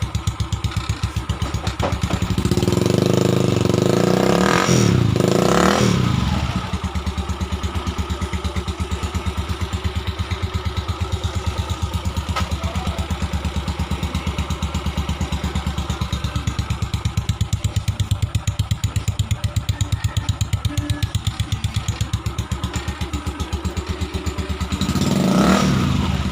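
Motorstar motorcycle engine running through a gutted ('kalkal') exhaust pipe with its baffles removed, idling with a loud, rapid, even popping beat. The throttle is blipped into revs twice, once for a few seconds starting about two seconds in and again briefly near the end, each time rising and falling back to idle.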